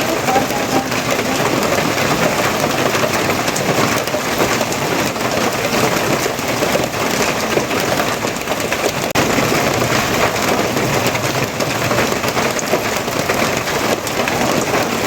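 Steady, dense rainfall pattering on a surface, an even hiss without pauses or distinct impacts.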